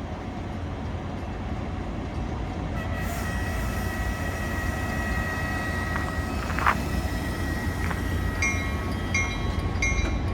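Metra commuter train with its MP36PH-3S diesel locomotive rumbling steadily at the station. A high steady tone comes in about three seconds in, and near the end a bell starts ringing about twice a second.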